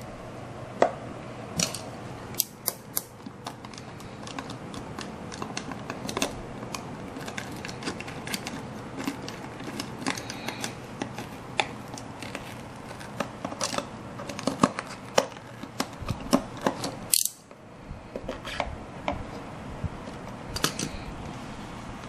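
Hand crafting work on a model: many irregular small clicks, taps and snips of tools and materials being handled, over a steady background hiss.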